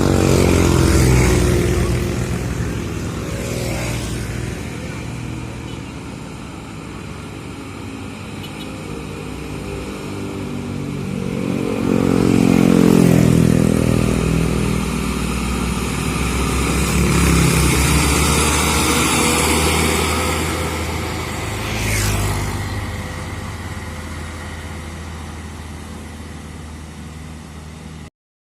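Road vehicles going up a steep hill, engines working and revving, several passes swelling up and fading away. A brief sharp click comes past three-quarters of the way through, and the sound cuts off suddenly just before the end.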